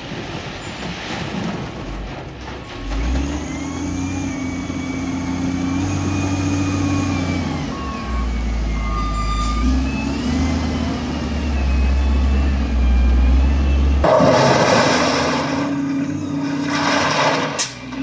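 Heavy diesel construction machine working: the engine runs and revs under load with a whine that rises and falls in pitch. About fourteen seconds in, the sound changes abruptly to a louder, rougher stretch.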